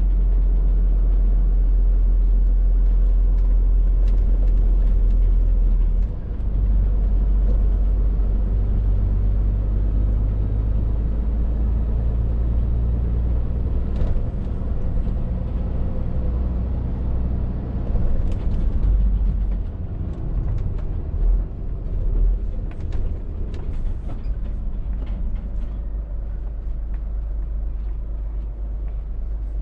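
Scania R450 lorry on the move: a steady low diesel drone with road rumble, its engine note shifting a few times and easing in the second half. Scattered light clicks and knocks run over it.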